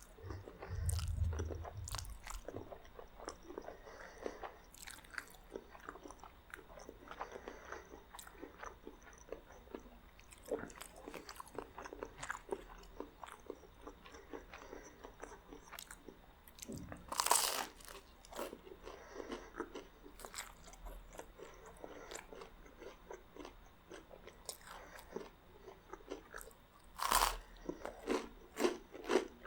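Close-miked chewing and biting of spaghetti and crunchy garlic bread, with many small wet clicks and crackles. Two louder crunches stand out, one about halfway through and one near the end.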